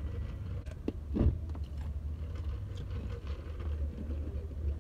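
Steady low rumble of a car's engine idling, heard from inside the cabin, with a short thump about a second in.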